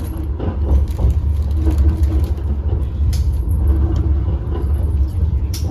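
Steady low rumble of a tram running along the track, heard from inside the passenger car, with two brief sharp clicks, one about three seconds in and one near the end.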